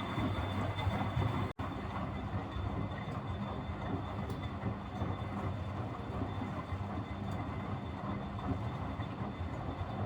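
Miele Deluxe-Electronic W761 washing machine drum turning with its motor running during the wash cycle: a steady rumble with a low hum that stops abruptly near the end, as the drum pauses before reversing.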